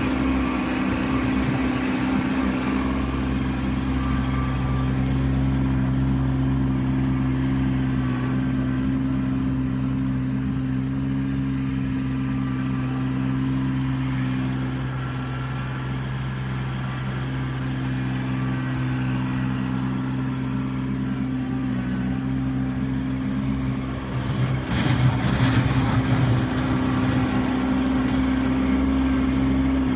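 Kubota B2650 compact tractor's diesel engine running steadily under work. It eases off slightly about halfway, and about five seconds from the end it gets louder with a rougher noise on top for a couple of seconds.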